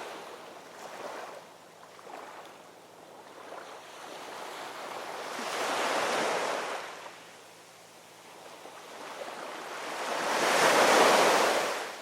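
Ocean waves breaking and washing ashore in a slow rhythm: a smaller wave swells and fades about halfway through, then a louder one peaks near the end, over a soft steady hiss of surf.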